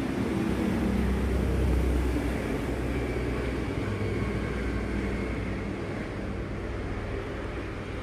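Steady low mechanical rumble, swelling slightly early on and then easing, with a faint thin whine above it in the middle.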